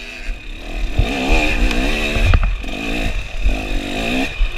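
KTM 300 two-stroke dirt bike engine revving up and down in a series of short bursts, with a few sharp knocks.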